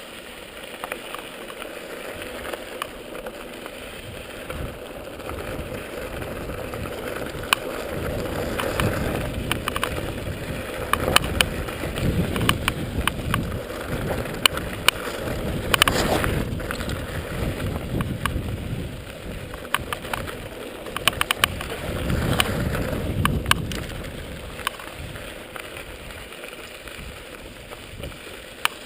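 Mountain bike rolling down a dirt trail: a steady rush of tyres and movement, with many sharp clicks and knocks as the bike rattles over bumps, coming thickest through the middle stretch.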